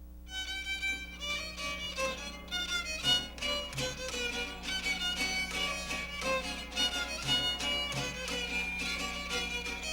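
Background music: a violin playing a lively melody of short notes.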